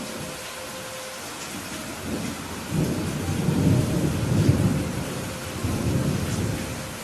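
Steady rain with a rolling rumble of thunder that builds about three seconds in and dies away near the end.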